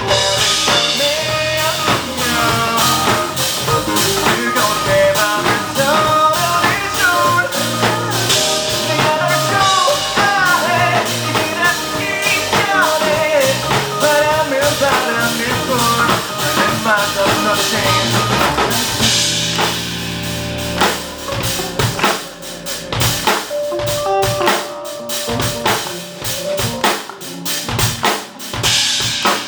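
Live rock band playing an instrumental passage on drum kit: a lead melody with bending notes runs over the drums for most of the first two-thirds, then the music thins out to the drums and a held note.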